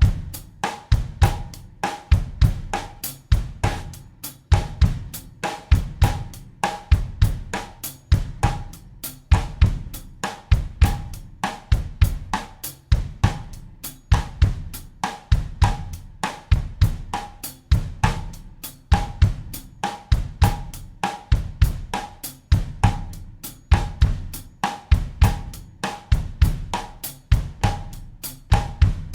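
Acoustic drum kit playing a steady bossa nova groove at 100 beats per minute in 4/4: bass drum, snare and hi-hat or cymbal in an unbroken repeating pattern.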